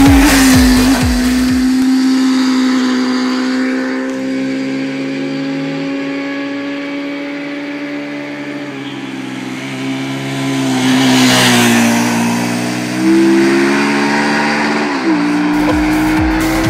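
Sport motorcycle engine running at high revs with a steady note, sagging a little in pitch past the middle and then stepping up twice near the end.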